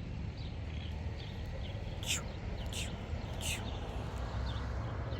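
Birds calling: three loud, quick calls sweeping downward in pitch, about two seconds in and less than a second apart, over scattered softer chirps and a steady low rumble.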